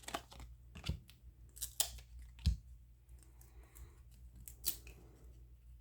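Baseball trading cards being handled and flipped through by hand: a few short, sharp card snaps and clicks with light rustling between them.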